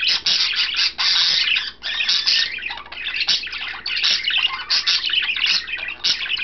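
Budgerigar singing: a continuous warble of rapid chirps, squawks and chattering notes.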